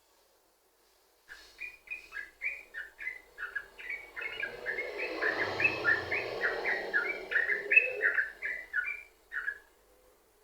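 Yellow-vented bulbul (trucukan) singing a long unbroken run of quick, bubbly chirping notes, about three or four a second. It begins about a second in and stops shortly before the end.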